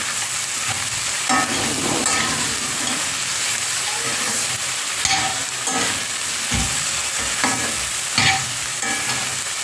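Food frying in oil in a pan, sizzling steadily, with a utensil scraping and knocking against the pan now and then as it is stirred.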